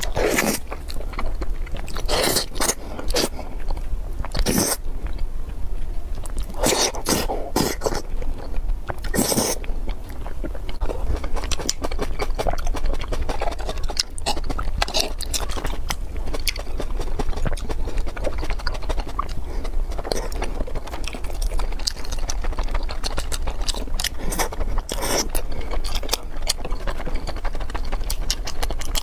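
Close-miked eating sounds: biting and wet chewing of soft food, with irregular sharp clicks and smacks. The loudest bites come in the first ten seconds, then quicker, smaller chewing clicks.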